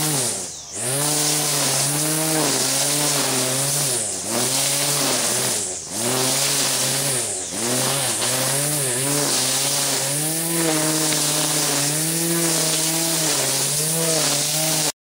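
1976 Opel-Isuzu four-cylinder engine running on its first start after seven years of sitting, its revs sagging and picking back up several times. The sound cuts off suddenly near the end.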